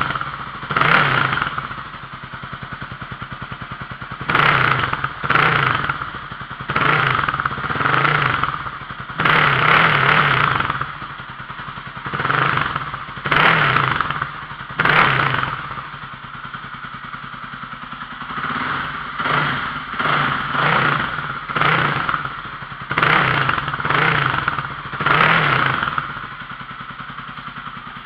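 Kawasaki KLX300R's single-cylinder four-stroke engine idling, with the throttle blipped more than a dozen times in short revs that rise and fall back to idle.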